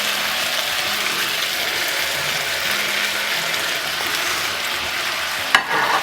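Chicken and garlic sizzling and crackling steadily in hot oil in a wok as vegetables go in, with a single sharp knock about five and a half seconds in.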